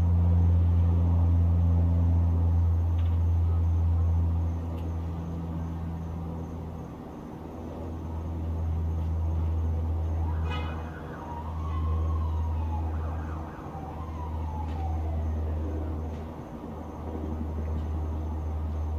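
Steady low rumble of distant town traffic that swells and fades, with a distant siren about halfway through whose tone slowly falls in pitch over a few seconds.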